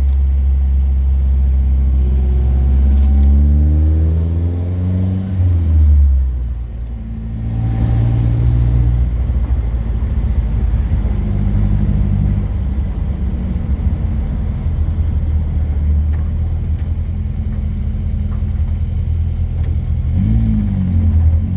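Classic car engine and road noise heard from inside the car while driving. The engine pitch climbs over the first few seconds, drops sharply about six seconds in, then runs steadily.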